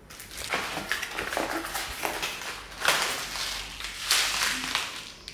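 Dense crunching and crackling with many small sharp clicks, in uneven waves, louder about three and four seconds in. It starts and stops abruptly.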